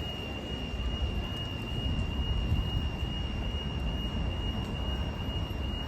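Level crossing alarm sounding a steady, unbroken high-pitched tone over a continuous low rumble of traffic and wind. The alarm has been falsely activated.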